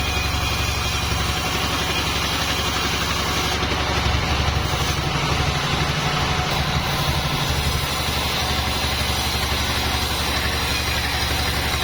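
Engine powering a homemade band sawmill, running steadily with a rapid low pulse; its note thickens for a few seconds midway.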